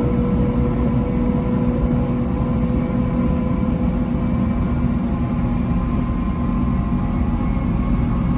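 700 series Shinkansen train running steadily: a continuous low rumble with a faint steady hum of several tones over it.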